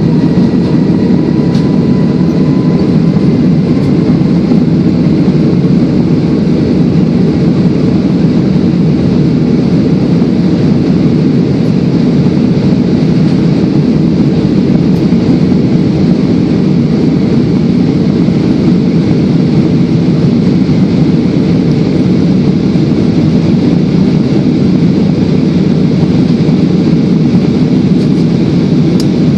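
Airliner engine and airflow noise heard inside the cabin during take-off or climb, a loud steady rush, with a faint engine whine rising slightly in pitch over the first few seconds.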